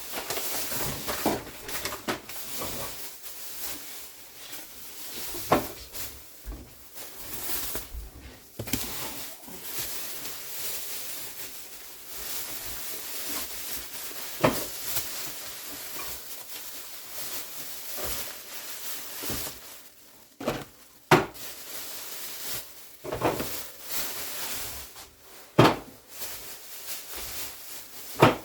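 Groceries being handled and put down: scattered knocks, clatters and rustling, with a few sharp louder knocks spread through.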